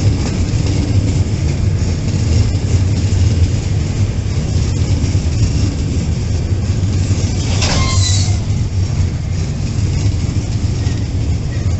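Enclosed double-deck car-carrier freight wagons rolling past at close range, a loud, steady rumble of wheels on rail. A brief high squeal cuts in about eight seconds in.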